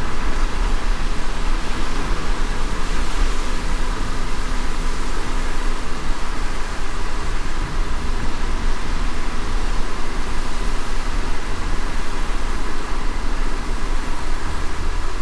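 A car driving in light rain: a steady low road rumble under an even hiss of rain.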